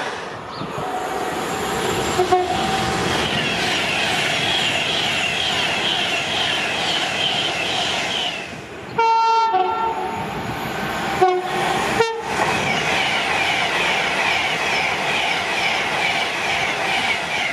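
Express passenger trains running through stations at speed, with a rushing, rhythmic clatter of wheels and carriages. After a cut about halfway, a train horn gives one long blast, then two short toots, and a Class 390 Pendolino electric train rushes past.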